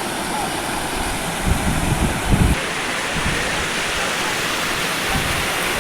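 Steady rushing of a waterfall, with a few low bumps around two seconds in.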